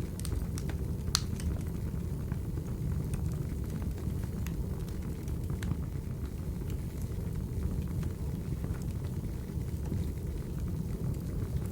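Firewood burning: a steady low rumble of the fire with scattered sharp crackles and pops, the loudest pop about a second in.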